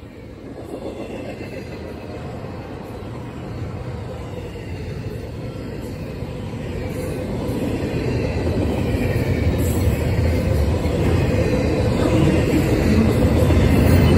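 Double-stack intermodal container train's well cars rolling past, wheels rumbling and clattering on the rails. The sound grows steadily louder.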